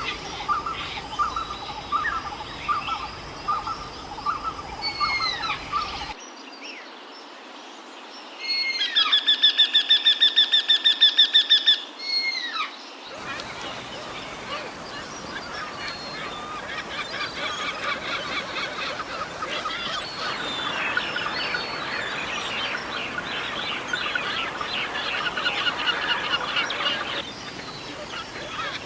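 Wild birds calling in a few spliced stretches. First come short calls repeated at a steady pace. A loud, fast run of repeated notes follows for about three seconds, and then a dense chorus of many birds calling over one another.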